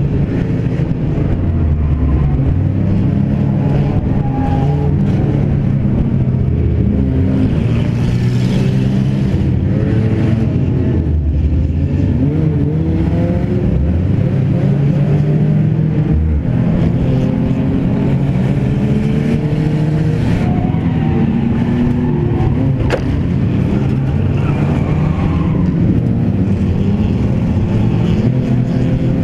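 Stripped-out sedan's engine running hard during racing, heard from inside its gutted cabin, its pitch rising and falling as the driver accelerates and lifts, with other cars' engines mixed in. One sharp click about two-thirds of the way through.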